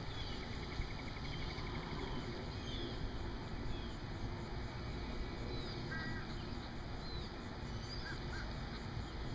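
Outdoor birds calling over a steady low rumble: scattered short high chirps, a quick ticking trill near the start, and a few fuller stacked calls around two-thirds of the way through.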